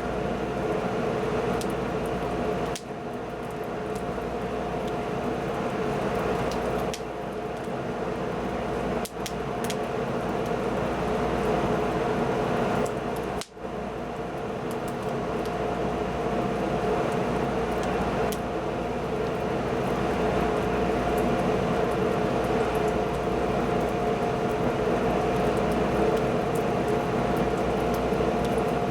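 Wood fire burning with a steady rushing sound and a few faint crackles, under a steady mechanical hum.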